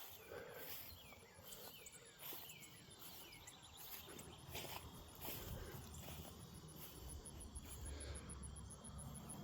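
Crickets chirping outdoors in a faint, steady, evenly pulsing high trill, with a few short falling chirps in the first few seconds.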